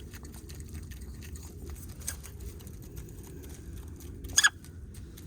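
Chickens pecking and foraging at food, a steady patter of many quick beak taps that sounds just like little vacuum cleaners. One short, sharp, higher sound stands out near the end.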